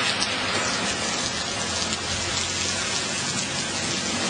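Heavy rain falling steadily in a thunderstorm, with small pea- to dime-size hail mixed in, giving a dense, even hiss.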